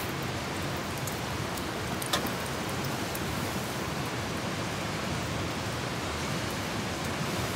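Steady rain: an even hiss with a few scattered drop ticks.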